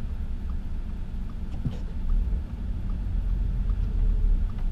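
Cabin sound of a four-wheel-drive car: a steady low engine and road rumble that grows heavier in the second half, with a faint, regular ticking about every three-quarters of a second.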